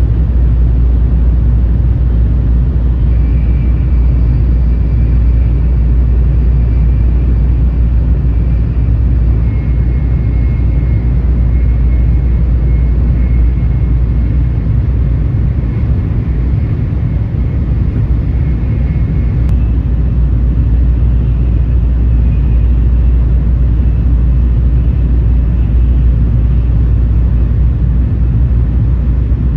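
Tokaido Shinkansen train running at speed, heard from inside the passenger car: a steady, loud low rumble, with a faint high whine that comes and goes.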